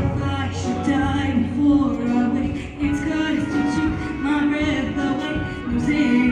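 Show choir singing with live band accompaniment, the voices' melody moving over sustained instrumental backing.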